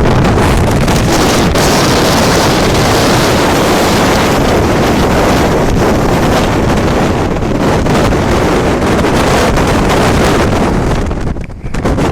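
Storm wind buffeting the microphone: a loud, continuous rush and rumble that eases about eleven seconds in.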